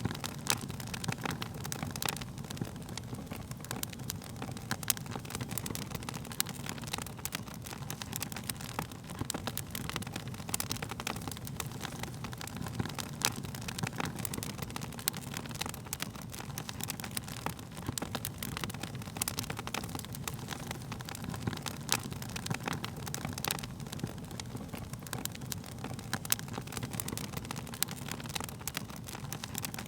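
Wood fire burning, with frequent irregular sharp crackles and pops of the wood over a steady low rumble of the flames.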